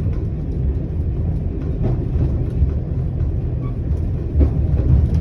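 Single-car diesel railcar running slowly, at about 15 mph, heard from inside the cab: a steady low rumble of engine and wheels on the track, with a few short knocks about two and four and a half seconds in.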